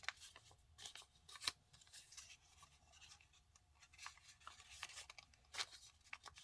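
Faint rustling and crinkling of a sheet of printer paper being handled, folded in half and creased, in short scattered bursts.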